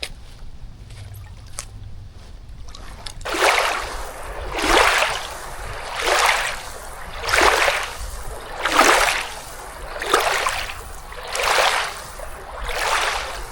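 Windshield wipers of a van sweeping back and forth over a rain-soaked windscreen, a regular swish about every one and a half seconds, starting a few seconds in, over light ticks of rain.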